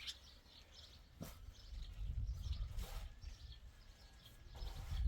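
Small birds chirping with short, scattered calls, over a low, uneven rumble.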